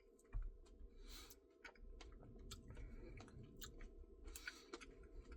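Faint close-up chewing of a Reese's Pieces cookie dough Blizzard, with scattered small wet mouth clicks and a soft breath-like swell about a second in and again near the end.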